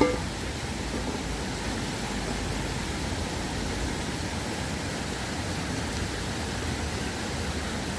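River water rushing in a steady, even wash, with a short clink right at the start.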